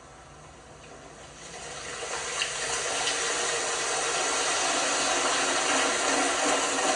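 Water rushing into an LG washing machine as it fills: faint at first, swelling over the first few seconds into a steady, loud hiss of flowing water.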